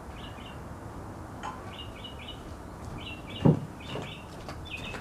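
A bird chirping in quick groups of two or three short notes, repeated about every second, over a steady low background noise. A single sharp knock about three and a half seconds in is the loudest sound, followed by a few faint clicks.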